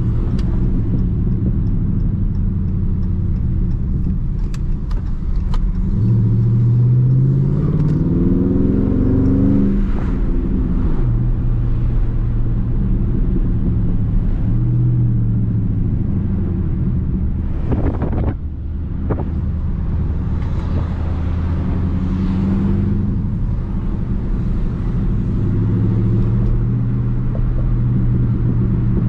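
Dodge Charger Daytona 392's 6.4-litre HEMI V8 cruising at low revs. About six seconds in the engine note rises as the car accelerates, then drops back about ten seconds in, and it settles into a steady low hum again.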